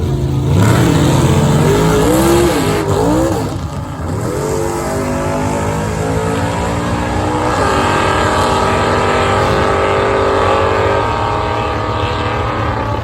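Race car engine revving up and down in quick blips, then climbing and holding at higher revs for a few seconds before easing back.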